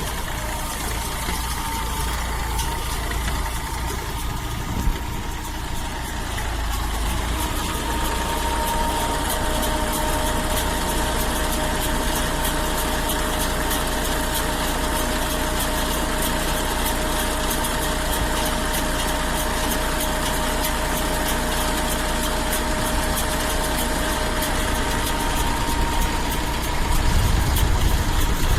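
Engine running steadily with a steady whine over it, a little louder from about seven seconds in, typical of a tractor-driven baler at work.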